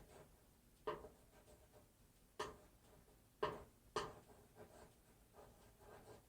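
Faint rubbing and scraping as vinyl is burnished down through transfer paper onto a metal sign, with four short, sharp strokes standing out over the first four seconds.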